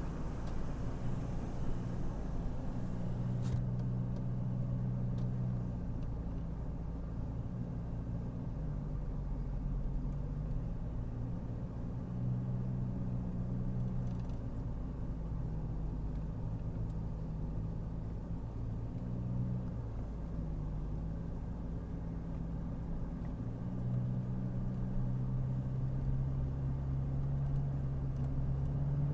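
Car engine and road rumble while driving on a winding road, the engine note rising and falling every few seconds as it changes speed.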